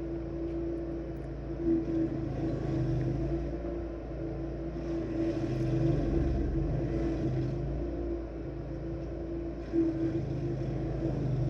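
27-horsepower stump grinder's engine running steadily under load, its cutting wheel grinding into a large tree stump; the grinding noise swells louder about halfway through and again near the end as the wheel bites in.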